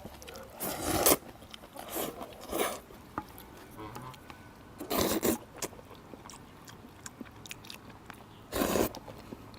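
Close-up eating sounds of a mouthful of saucy noodles being bitten and chewed, in about five short separate bursts with quieter pauses between.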